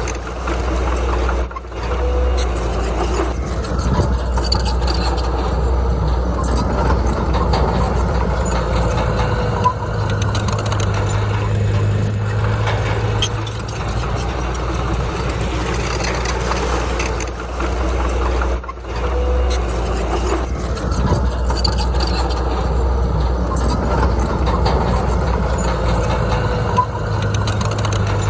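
Heavy diesel earthmoving machine running under work. Its low engine note steps up for a few seconds twice, and the sound briefly drops out twice.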